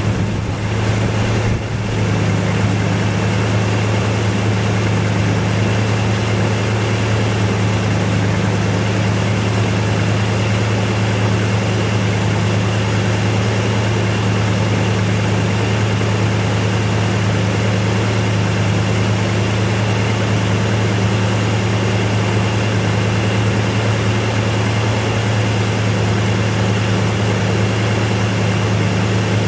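An engine idling steadily with an even, unchanging low hum.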